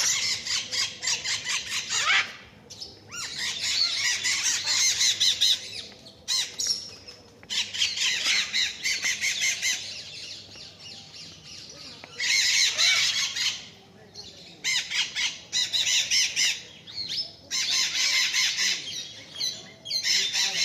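Many birds chattering and squawking together in dense, high-pitched bouts a few seconds long, broken by short, sudden gaps.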